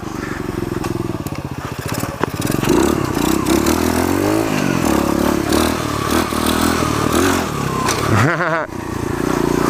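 Pitster pit bike's small motorcycle engine being ridden, its pitch rising and falling as the throttle opens and closes, with a sharp knock about two seconds in.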